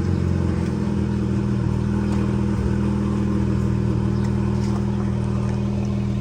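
Volkswagen Golf GTI's 2.0-litre turbocharged four-cylinder idling steadily just after a cold start, the car not having run since the day before.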